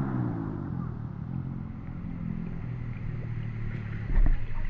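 A small engine running steadily, its pitch dropping slightly at first and then holding; a low rumble comes in near the end.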